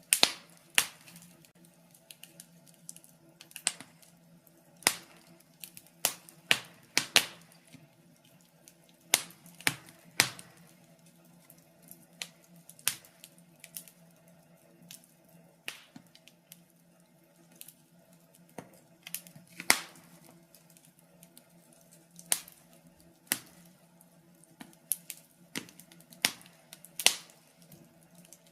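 Wood fire in a fireplace crackling, with irregular sharp pops one or two a second over a faint steady low hum.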